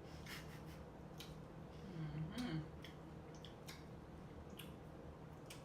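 Someone chewing fruit with soft, wet mouth clicks and smacks scattered through, and a short closed-mouth "mm" about two seconds in.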